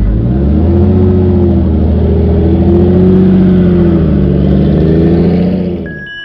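Car engine revving loudly, its pitch climbing and then rising and falling several times, cutting off abruptly just before the end.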